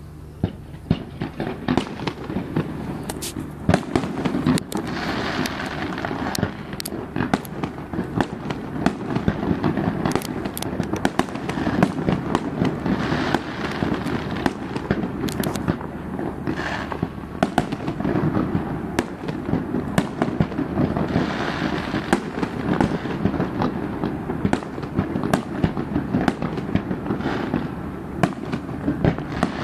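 Fireworks going off in a dense, continuous barrage of sharp bangs and cracks, several a second, with swells of crackling in between.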